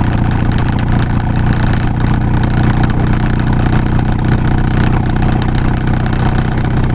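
Truck engine running steadily with road noise, heard from inside the cab while driving.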